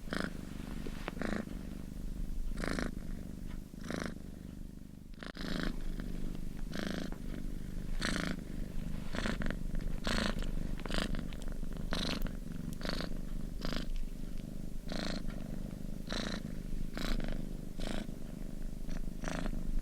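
Domestic cat purring steadily: a continuous low rumble with a breathy rasp on each breath, about once a second.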